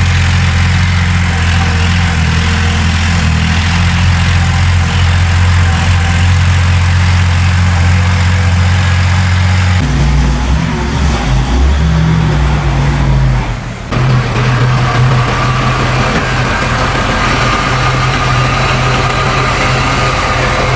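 Heavy diesel engines of earthmoving machinery running steadily with a low drone. The engine note changes abruptly about halfway through, dips briefly about four seconds later, then runs steadily again.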